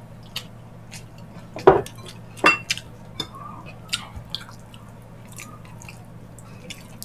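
Close-miked mukbang eating sounds: wet chewing, lip smacks and sticky clicks as gelatinous ox-foot balbacua and rice are eaten by hand, with the two loudest smacks a little under two seconds in and again about a second later. A steady low hum lies underneath.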